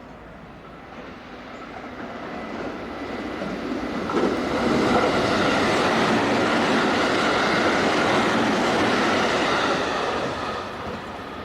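Six-car Haruka limited express train passing through the station at speed without stopping. The rush of wheels on rail builds steadily and is loudest for about six seconds from around four seconds in, then fades as the train goes by.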